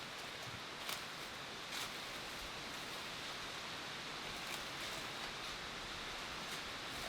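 Steady outdoor hiss with a few faint, short ticks.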